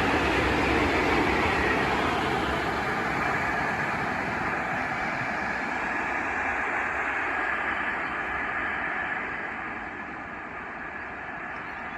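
Freight train rolling past: a steady rumble of wheels on rail that slowly fades, dropping off near the end.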